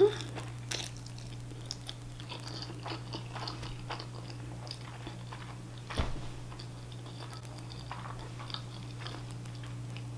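Close-up chewing of soft udon noodles, with many small wet mouth clicks over a steady low hum. A brief louder sound comes at the very start, and a single thump about six seconds in.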